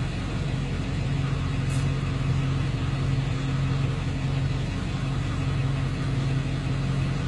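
Vehicle engine idling, a low steady hum that holds an even pitch.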